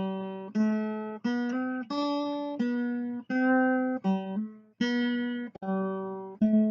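Background music: a guitar playing a melody one plucked note at a time, each note ringing and fading before the next, a little under two notes a second.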